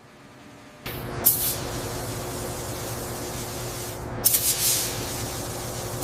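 Paint spray gun hissing, with two louder bursts of spray about a second in and again past the middle, over a steady low hum.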